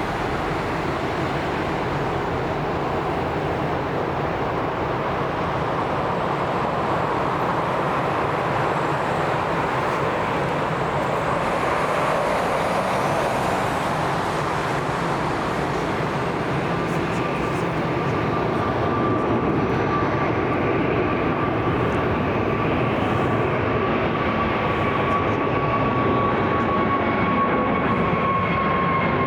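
Jet airliner engines rumbling and growing slowly louder, with a high engine whine coming in past halfway that slides gradually down in pitch.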